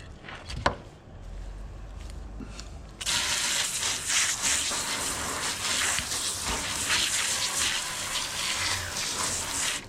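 Water spraying from a hose in a steady rush, rinsing loosened scales off a scaled fish. The spray starts suddenly about three seconds in and cuts off just before the end.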